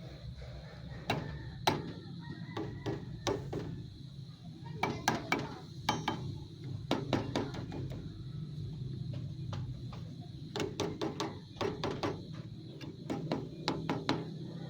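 Irregular clusters of sharp clicks and knocks, the sound of hands working with computer parts and plug connections while setting up a power-on test, over a steady low hum.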